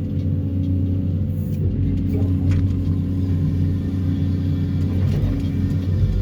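Excavator with a Daedong DTD350T vibratory pile hammer running steadily: a loud low drone with a constant hum, from the machinery used to pull steel sheet piles.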